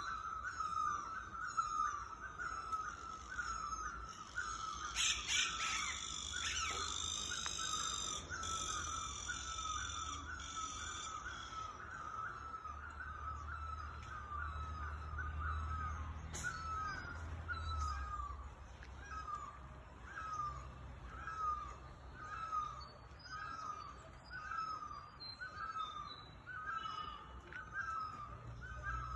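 Birdsong: one bird repeats a short, hooked whistled note evenly, at first a little faster than once a second and slowing to about once a second later. Louder harsh calls from other birds join in for several seconds early on.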